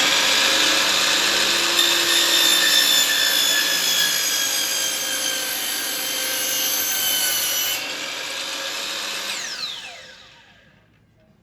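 Electric jigsaw cutting wood: its motor runs steadily with a high whine over the rasp of the blade. Near the end it is switched off and winds down, its pitch falling away.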